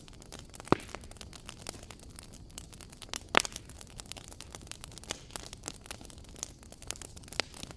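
Fire crackling in a fireplace: a steady run of small pops and ticks, with two louder snaps, one under a second in and one about three and a half seconds in.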